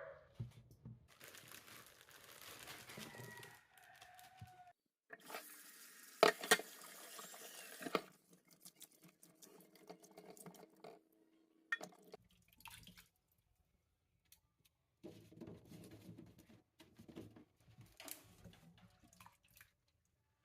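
Running water and small clicks and clatters, in several short clips that start and stop abruptly, with a near-silent gap about two-thirds of the way through.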